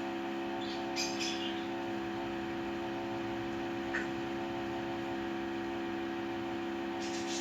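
A steady hum, with short high bird chirps about a second in and again near the end, and a faint click in the middle.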